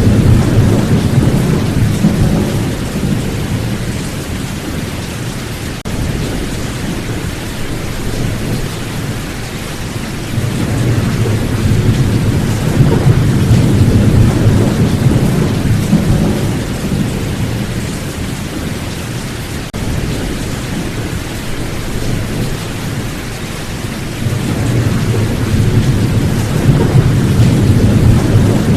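Steady heavy rain with rolling thunder, the low rumble swelling and fading three times: near the start, around the middle, and near the end.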